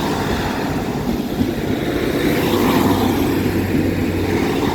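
A Class 150 diesel multiple unit passing close by, its engines and wheels giving a steady rumble with a low hum that swells a little around the middle.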